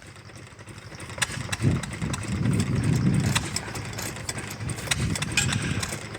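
Old hit-and-miss stationary engine running quietly, a low uneven engine sound that builds about a second and a half in, with scattered sharp clicks.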